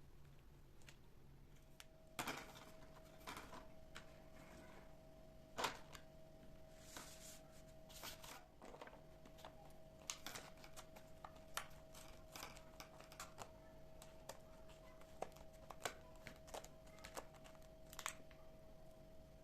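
Quiet kitchen handling sounds: scattered light clicks and knocks, irregular, with one sharper knock about five and a half seconds in. A faint steady hum comes in after about two seconds.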